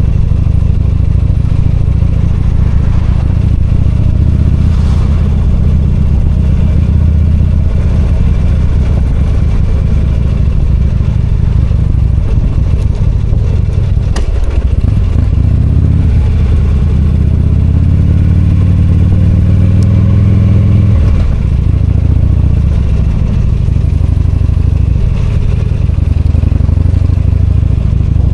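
V-twin motorcycle engine running under way, heard from the rider's seat. About halfway through the revs drop briefly, then climb in a few rising steps as the bike accelerates, easing off again a few seconds later.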